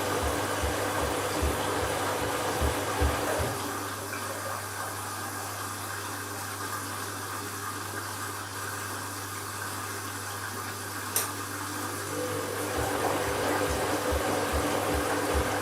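Candy washing machine running an empty bleach-cleaning cycle: the drum motor turns with a regular low pulsing, gives way to about nine seconds of running water, and then starts pulsing again. There is a single sharp click near the end of the water stretch.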